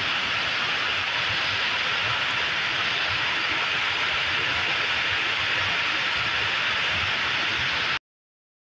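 Heavy rain pouring down as a steady, even hiss, which cuts off abruptly near the end.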